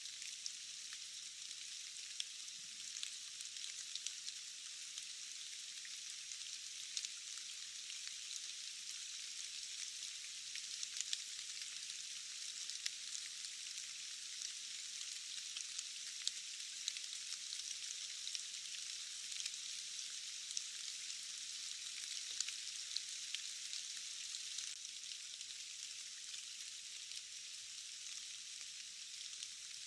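Steady rain, an even high hiss with scattered sharp drop ticks and no low rumble.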